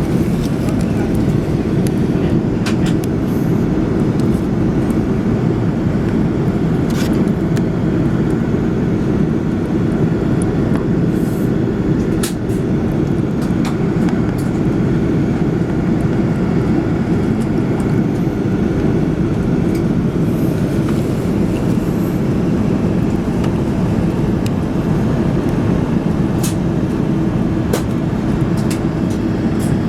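Steady cabin rumble inside an Airbus A330-300 in flight, the drone of its engines and the airflow over the fuselage, with a few faint clicks.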